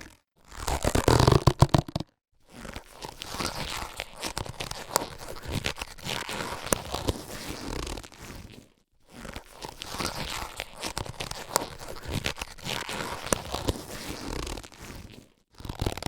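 Latex surgical gloves being handled, giving a dense rubbery crinkling dotted with many small crackles and clicks. A louder burst comes just after the start, then two long passages of crinkling with a short pause about nine seconds in.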